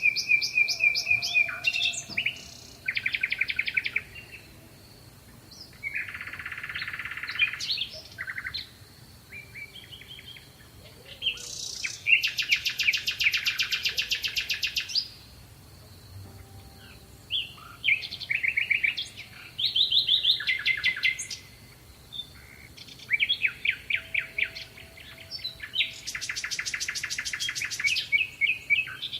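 European goldfinch singing: a run of varied twittering phrases with fast buzzy trills, each a second or two long, broken by short pauses.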